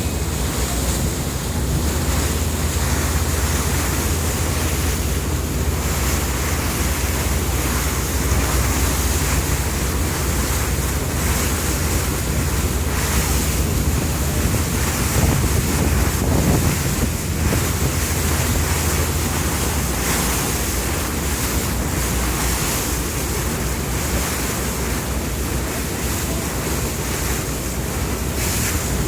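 Sightseeing boat under way: a steady low engine drone, with water rushing past the hull and wind buffeting the microphone in gusts.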